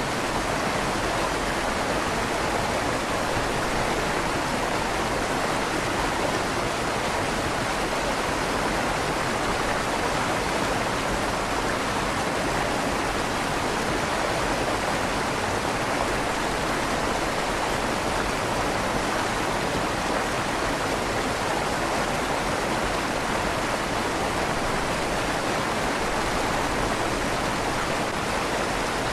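River water flowing steadily through a stone tunnel under a bridge, a constant rushing with a slight echo off the tunnel walls.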